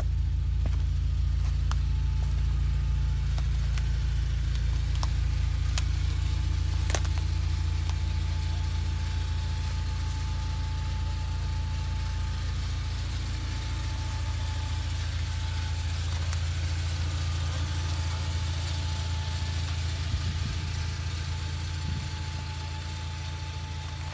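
Off-road vehicle engine running with a steady low drone, with a few short knocks and clicks and a faint steady whine.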